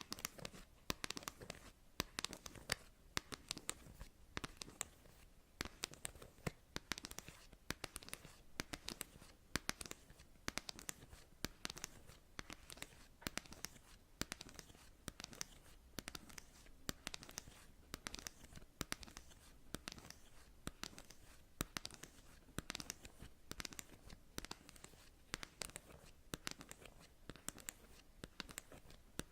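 Long natural fingernails tapping and scratching on cards: a fast, irregular stream of sharp, light clicks.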